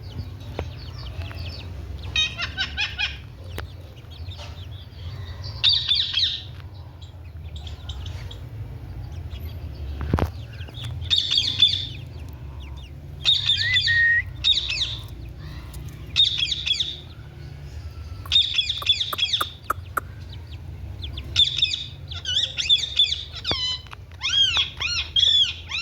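Parrot giving repeated short, harsh calls every second or two, over a steady low hum. There is a single sharp knock about ten seconds in.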